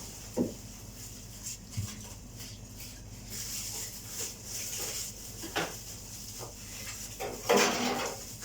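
A dog making small whining sounds while begging beside a kitchen table, with a few light knocks and one louder noise near the end.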